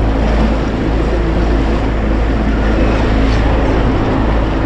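Wind buffeting the microphone on a boat at sea, over a steady low engine hum and the wash of water.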